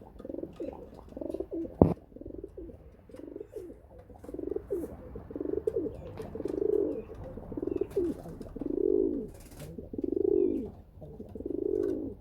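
Domestic racing pigeons cooing over and over, about one coo a second, the coos growing louder in the second half. A single sharp knock about two seconds in.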